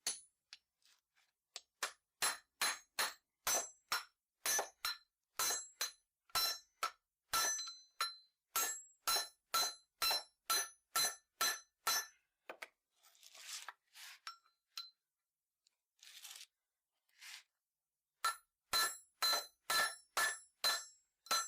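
Small hammer striking the metal housing of an anti-roll bar link's ball joint, a steady series of ringing metal-on-metal blows, about one to two a second, with a pause of a few seconds in the middle broken by brief scraping sounds. The joint is being peened closed to take the play out of its worn ball.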